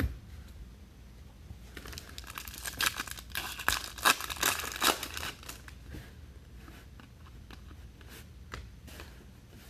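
Crinkling and rustling of trading-card packaging and cards being handled, with a busy flurry of crackly rustles between about two and five seconds in.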